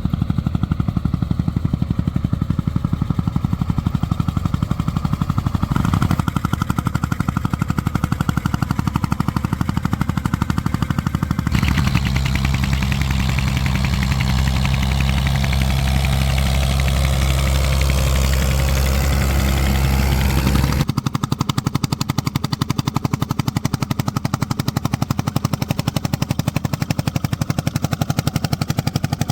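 Vintage tractor engine running with a rapid, even beat of separate exhaust pops. From about twelve to twenty-one seconds it is louder and deeper.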